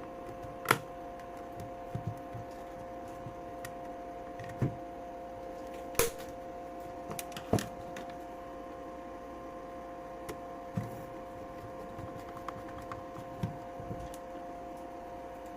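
Irregular clicks and light knocks of a screwdriver and screws working on the plastic casing of a portable tyre inflator pump as it is screwed back together, over a steady faint hum.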